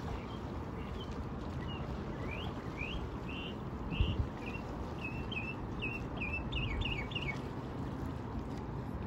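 A songbird singing a string of short chirping notes that quicken into a rapid run near the end, over a steady low rumble, with a brief thump about four seconds in.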